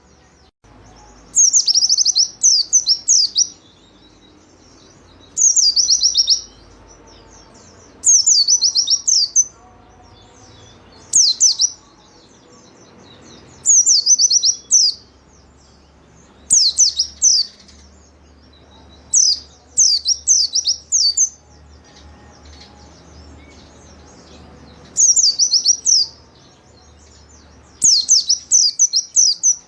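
White-eye (pleci) singing: about nine short phrases of rapid, high twittering notes, each a second or two long, coming every two to three seconds, with a faint low hum between phrases.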